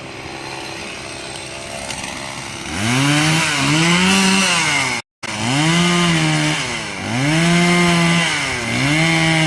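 Chainsaw engine running at a low, steady speed, then revved hard in about five bursts from about three seconds in, its pitch climbing and sagging with each one. The sound cuts out completely for an instant near the middle.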